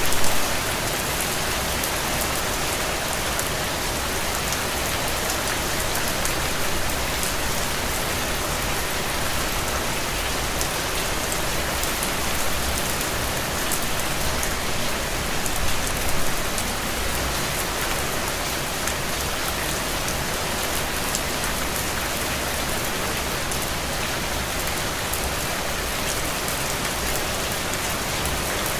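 Steady rain falling on a window pane, an even hiss of rain with many small drop ticks; it swells briefly louder right at the start and again about halfway through.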